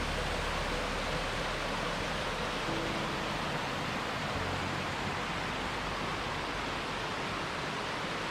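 Steady rush of a mountain stream and waterfall: an even wash of falling, tumbling water.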